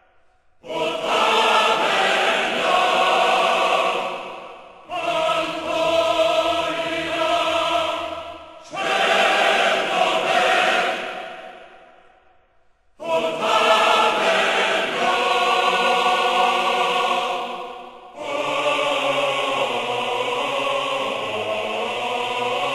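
Choir-like music: long held chords sung in about five swells of roughly four seconds each, with short gaps between them.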